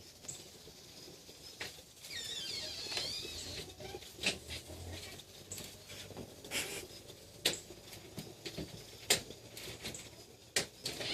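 Kittens scampering and scrabbling about: scattered light taps and patters of paws and claws, with a brief high, wavering squeak about two seconds in.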